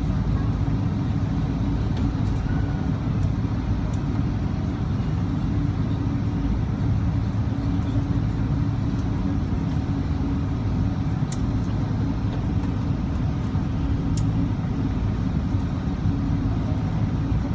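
Steady low cabin rumble of a Boeing 777-200ER on the ground with its engines at idle, with a few faint clicks.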